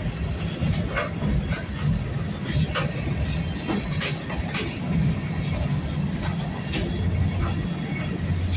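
Work-train gondola cars rolling past on the rails: a steady low rumble of wheels on track, with scattered clanks and clicks and a couple of brief high wheel squeals in the first few seconds.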